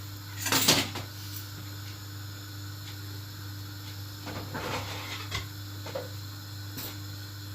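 Kitchen handling noises while dividing lasagna sheets: a short, loud scraping or snapping rustle about half a second in, then softer rubbing and a few light knocks over a steady low hum.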